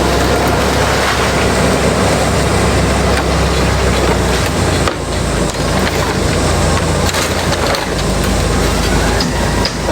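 Industrial shredder running under load, chewing through bamboo: a steady engine drone under continuous cracking and splintering, with brief dips about five seconds in and near the end.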